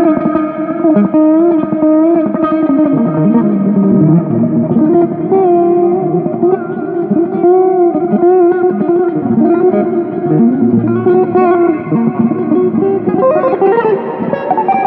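Electric guitar playing a slow melody, its held notes wavering with vibrato and sliding in pitch, over a lower accompaniment.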